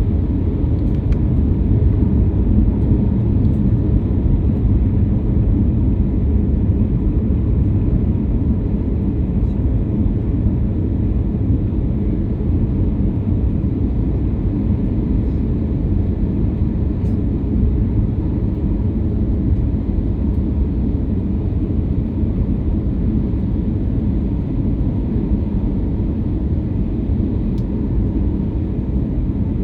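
Airliner cabin noise in flight: a steady, loud low rumble of engines and rushing air, unchanging throughout.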